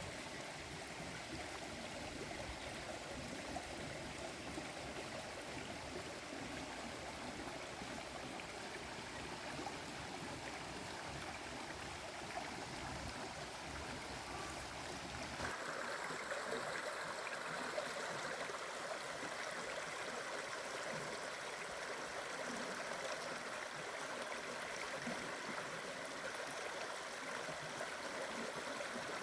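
Steady rushing of a flowing stream. About halfway through the sound changes abruptly, losing its low rumble and turning brighter.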